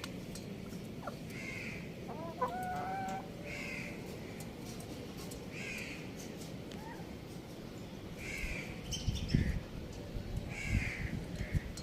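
Chickens calling: short calls that repeat about every two seconds, with a brief pitched call about two seconds in. A few low thumps come near the end.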